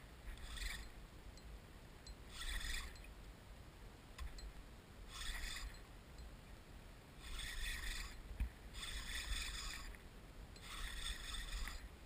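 Kayak paddle strokes, a short swish of water about every two to three seconds, over a low rumble of wind on the microphone.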